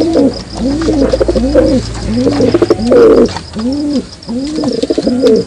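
Pigeon cooing: a run of short, low coos that each rise and fall in pitch, about one and a half a second.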